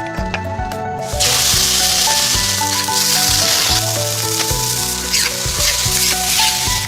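Food sizzling in hot oil, starting suddenly about a second in, with background music underneath.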